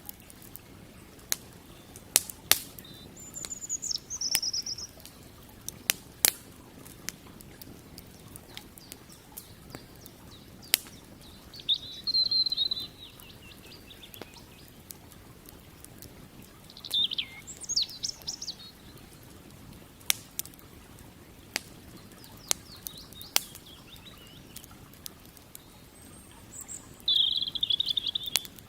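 Wood campfire crackling, with frequent sharp pops scattered irregularly, over a faint steady background hiss. Small songbirds sing short chirping phrases several times over it.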